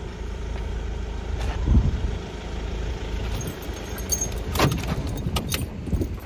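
Vehicle engine idling with a steady low rumble. In the second half, a few sharp crackles and knocks sound over it.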